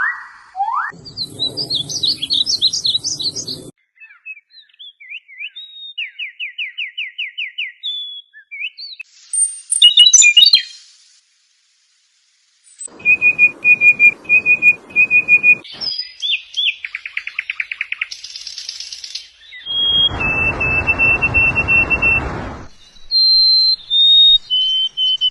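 Songbirds singing a string of varied phrases: rising whistles, fast trills, chirps and runs of evenly repeated whistled notes. Each phrase breaks off abruptly before the next, with a brief silence partway through. The loudest burst of chirping comes about ten seconds in.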